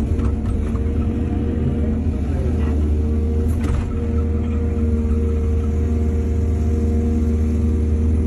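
Heavy diesel engine of an excavator running steadily, with a few brief metallic clanks near the start and again about three and a half seconds in.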